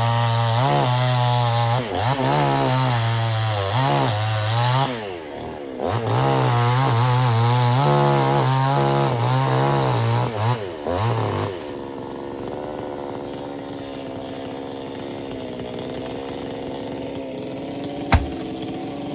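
Chainsaw running hard at high revs, its engine pitch rising and falling as it cuts into a coconut tree trunk, with a short dip around five seconds in. About twelve seconds in it drops to a steady idle, and a single sharp knock comes near the end.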